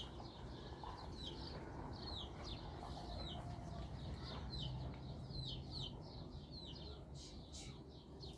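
A bird peeping over and over: short, high chirps that fall in pitch, about one or two a second, over a low steady rumble.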